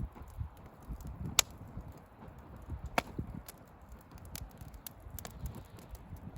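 Wood bonfire crackling, with scattered sharp pops from the burning firewood, the two loudest about a second and a half and three seconds in, over a low uneven rumble.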